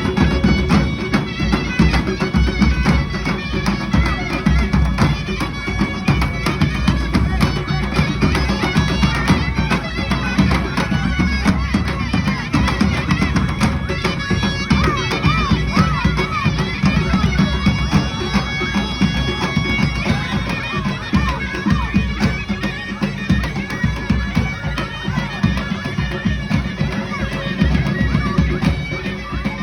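Armenian folk dance music, led by a loud reedy wind instrument playing a continuous melody over low accompaniment.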